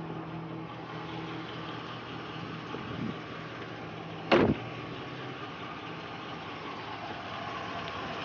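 Pickup truck engine idling steadily, with a single loud thump about four seconds in.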